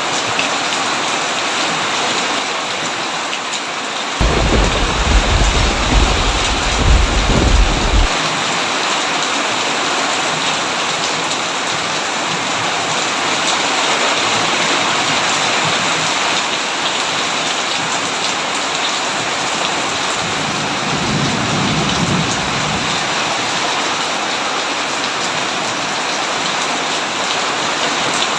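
Heavy rain falling steadily on a tin roof, with a loud thunder rumble that starts suddenly about four seconds in and cuts off about four seconds later, and a fainter rumble of thunder later on.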